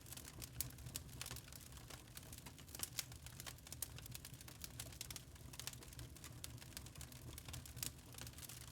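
Log fire crackling in a fireplace: irregular sharp snaps and pops of burning wood over a low, steady rumble of the flames.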